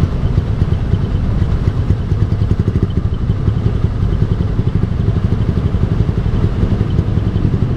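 Yamaha R15 v3's 155 cc single-cylinder engine running steadily through an aftermarket Ronin Musashi exhaust, a deep pulsing exhaust note with no revving.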